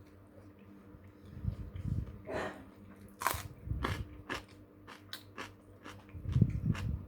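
Close-miked eating: a person chewing and biting into crunchy food, with a run of sharp crunches and wet clicks between about two and six seconds in.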